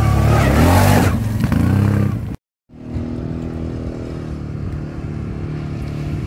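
ATV engine revving, its pitch rising under load for about two seconds with some clatter. The sound cuts out abruptly, then the engine resumes running steadily at lower revs.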